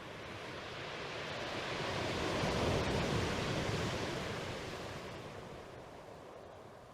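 One slow swell of rushing noise, like a sea wave washing in. It builds to a peak near the middle and fades away.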